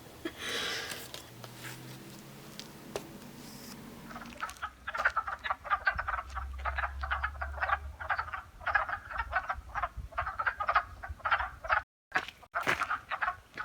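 A chorus of many frogs croaking in a rapid, overlapping stream. It starts about four and a half seconds in, after a quieter stretch.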